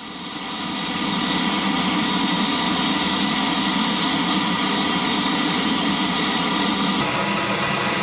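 UH-60 Black Hawk helicopter running: a steady whining drone from its twin turboshaft engines that fades in over the first second and shifts slightly near the end.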